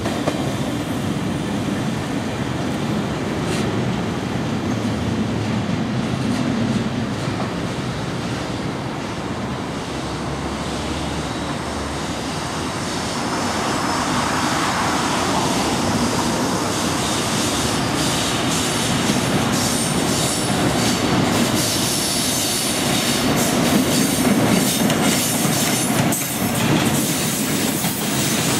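A container freight train hauled by a JR Freight EF200 electric locomotive running past on curved track, a steady rumble with some wheel squeal. It grows louder in the second half, as clicks of the wheels over the rail joints come in.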